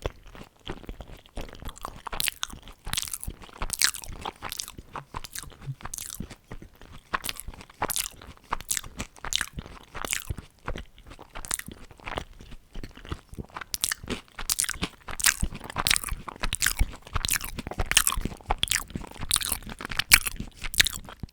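Close-miked eating sounds: a rapid, irregular run of crisp crunches from biting and chewing crunchy fried fast food, growing busier and louder in the second half.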